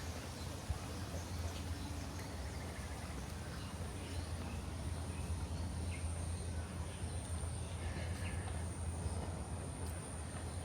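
Tropical garden ambience: a steady, thin, high-pitched insect drone that grows stronger about halfway through, over a low rumble, with a few faint chirps.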